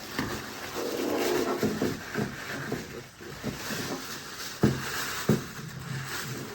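Handling noise from unboxing a fiberglass model-aircraft cowl: rustling and scraping of packaging, with two sharp knocks about half a second apart near the middle.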